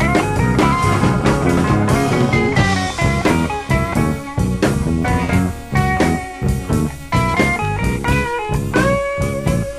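Electric blues band playing an instrumental break, with guitar over bass and drums and no singing.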